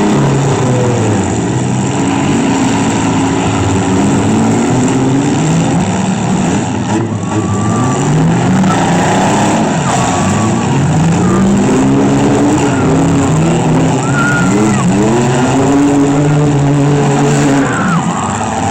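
Demolition derby vans, trucks and SUVs with their engines revving up and down over and over, loud throughout.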